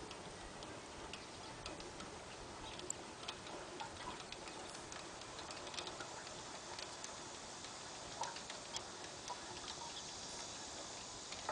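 Faint, irregular small clicks and ticks over a steady low hiss.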